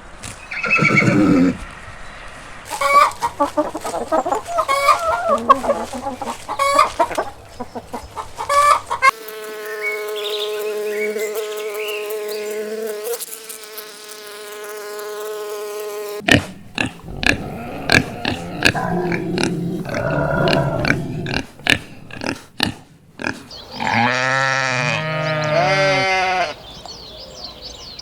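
A run of farm animal calls: poultry clucking in short choppy notes, a long steady held call in the middle, then a series of bleating calls near the end.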